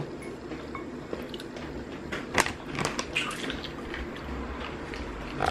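A person chewing salad, with several short crunches of raw leaves and vegetables, the loudest about two and a half to three seconds in.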